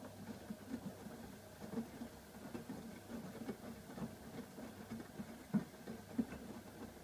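AEG Öko-Lavamat front-loading washing machine turning its drum during the wash, with a low motor hum and irregular soft thuds, several a second, of the laundry tumbling.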